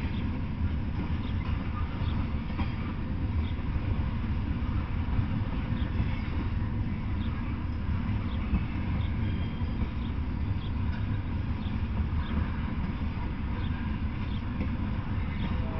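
Norfolk Southern freight train of open-top hopper cars rolling past: a steady low rumble of wheels on rail with faint scattered clicks.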